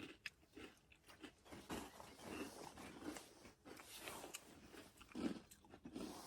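Faint close-up chewing and crunching of food: scattered small crunches and mouth clicks.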